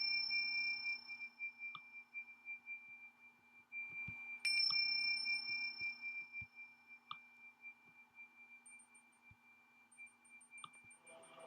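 A struck metal chime ringing in one clear high tone, sounded at the start and struck again about four and a half seconds in, each ring fading slowly.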